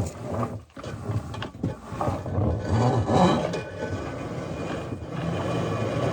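Sawmill feed-works machinery running, with irregular clanks and rattles, settling into a steadier machine hum about five seconds in.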